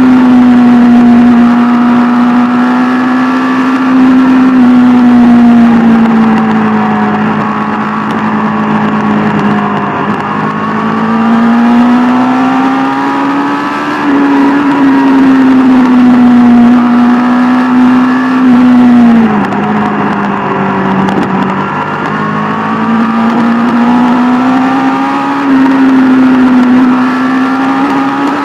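Sport motorcycle's inline-four engine running at steady cruising revs, its pitch drifting gently up and down over several seconds. About two-thirds of the way through it drops briefly, then climbs back up.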